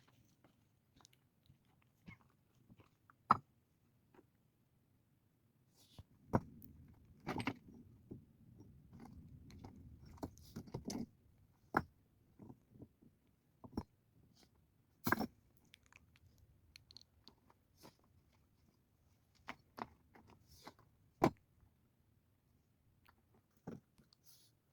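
Scattered sharp knocks and crunches from hand work, with a stretch of low scraping and rustling lasting about five seconds a quarter of the way in.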